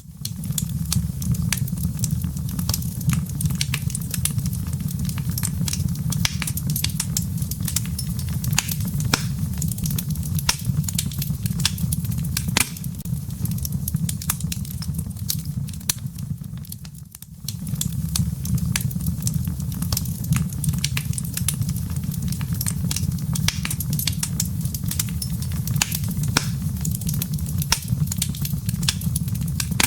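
Wood fire in a fireplace crackling, with dense, irregular sharp pops of burning firewood over a low, steady rumble. The sound dips briefly about seventeen seconds in, then carries on as before.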